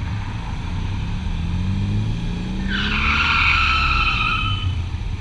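Motorcycle running on the road with a steady low rumble, its engine pitch rising about a second in as it speeds up. A high squeal starts near three seconds in and lasts about two seconds.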